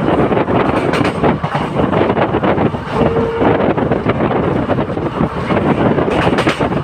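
Moving passenger express train heard from onboard: steady rumble and rattle of the coaches running on the track, with wind buffeting the microphone. A brief steady tone sounds about three seconds in.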